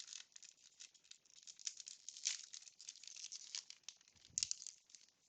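Faint, irregular rustling and light clicking from a wax-paper baseball card pack being opened and its cards handled, with a slightly louder cluster about four seconds in.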